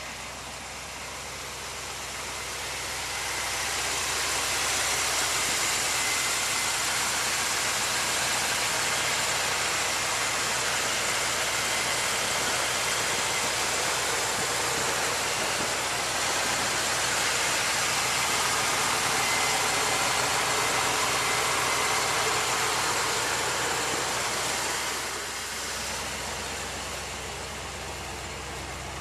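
1956 Dodge truck's engine running steadily, with a louder, even rush of noise building over the first few seconds and falling away a few seconds before the end.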